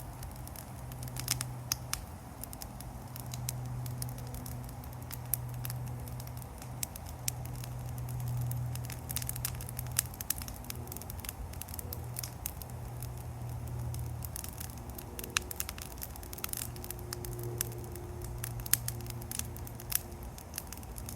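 Brush bonfire of blackberry vines and branches crackling, with sharp pops scattered throughout, over a low steady rumble.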